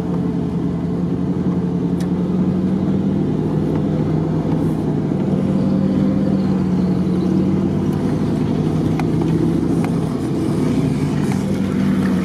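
A four-wheel-drive vehicle's engine running at a steady low drone, heard from inside the cabin while driving slowly on a muddy dirt road, with a few faint knocks.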